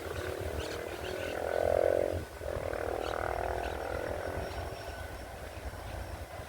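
GT22 diesel-electric locomotive sounding its horn in two long blasts, the first a little louder, over the steady low rumble of its idling diesel engine.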